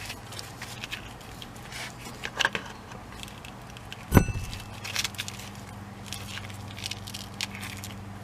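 Irregular clicks and clatter, with one loud knock about four seconds in, over a steady low hum.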